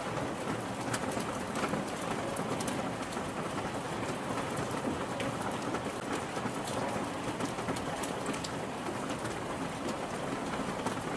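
Steady rain falling on a surface: an even hiss dotted with many small drop ticks.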